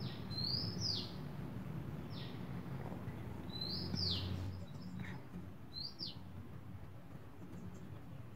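A small bird chirping: about four short, high chirps a couple of seconds apart, each sweeping up and then sharply down, over faint low room noise.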